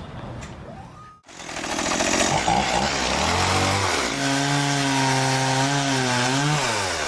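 Chainsaw engine at high throttle: after a short break about a second in, it comes in loud, rises in pitch, holds steady for a few seconds, then drops off near the end.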